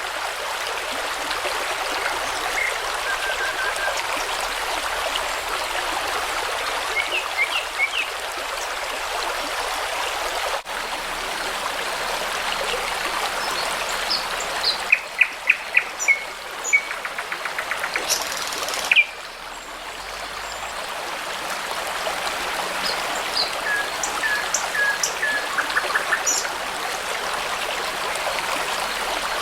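Brook babbling steadily, with songbirds chirping and calling over it in short phrases and a rapid trill about halfway through. The water sound drops out briefly twice and swells back up.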